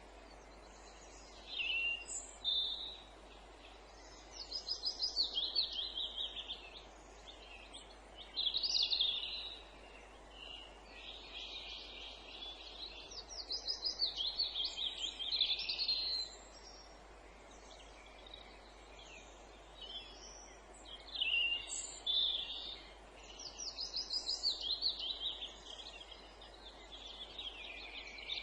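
Songbirds singing in woodland: short phrases of rapid, high trilled notes, several falling in pitch, every few seconds, over a faint steady background hiss.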